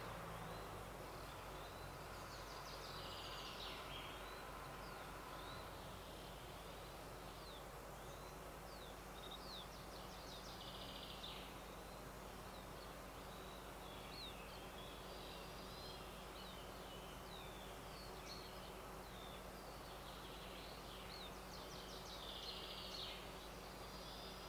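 Faint woodland ambience: small songbirds chirping at intervals, with a few short songs, over a steady low hum.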